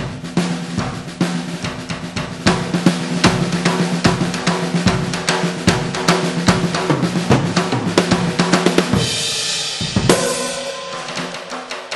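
Sampled snare drum sounds from a 2Box electronic drum module, triggered by fast stick strokes on the head and rim of a snare fitted with a multi-piezo dual-zone trigger. The snare rings with a steady pitch under the strokes. Near the end a brief hissy wash gives way to a harder single hit, and then more strokes follow.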